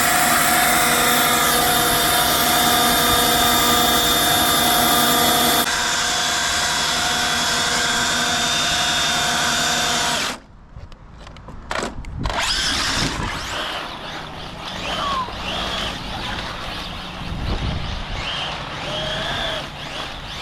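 Brushless electric motor of an Arrma Felony 6S RC car: a loud, steady, high whine for about ten seconds that cuts off abruptly. After that the car drives with short whines rising and falling as the throttle comes on and off.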